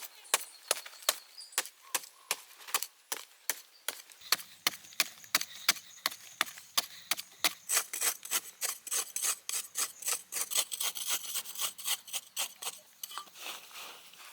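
Wood being sawn by hand in steady back-and-forth strokes, about three a second at first, quickening from about eight seconds in.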